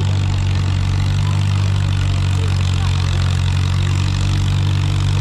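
Old tractor engine running at a steady, even speed, with no revving.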